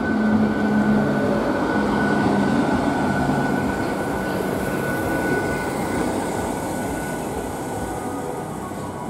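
ICF Medha electric multiple unit local train passing close at speed: a steady rumble of wheels on rail with a thin high whine over it. The rumble slowly fades as the last coaches go by.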